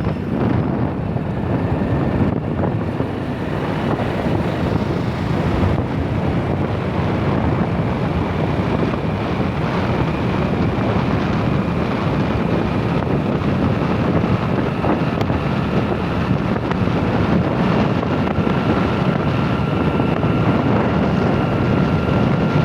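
Steady wind noise on the microphone over a continuous low rumble, with faint thin steady tones coming in during the second half.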